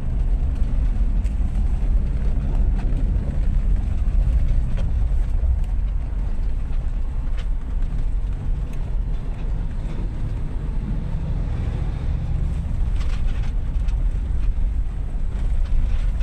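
A vehicle driving on a rough road: a steady low rumble of engine and tyres, with a few faint rattles.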